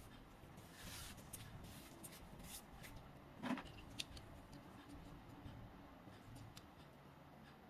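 Faint handling sounds of small objects: a brief rustle, a few light clicks, and one sharper knock about three and a half seconds in.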